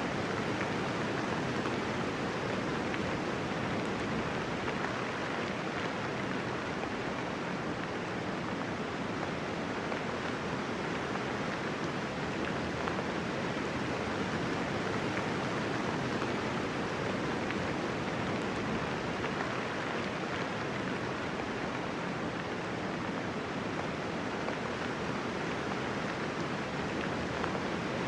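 Steady rainfall, a dense even hiss of raindrops with no thunder and no individual drops standing out.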